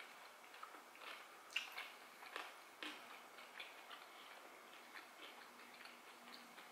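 Faint chewing of gehu, fried tofu stuffed with stir-fried bean sprouts: soft wet mouth clicks and small crunches, a few sharper ones between about one and three seconds in.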